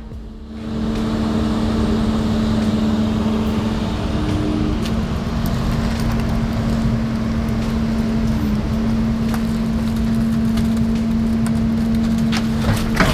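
Heavy diesel machine engine running at a steady speed with a constant hum. A second, higher tone drops out about five seconds in, and there is a sharp knock near the end.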